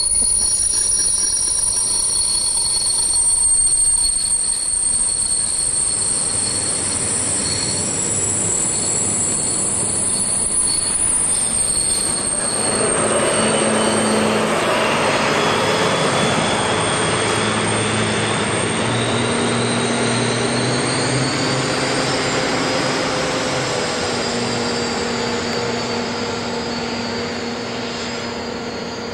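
Double-deck passenger coaches rolling past with a steady high-pitched wheel squeal. About twelve seconds in, the train's large diesel locomotive passes close by, its engine running loud, with a whine that rises partway through.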